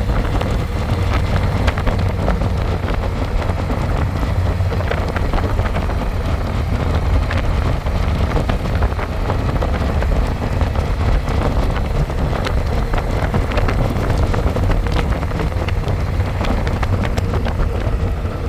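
Harley-Davidson Electra Glide's V-twin engine running steadily at road speed, heard from the pillion seat under heavy wind noise on the microphone.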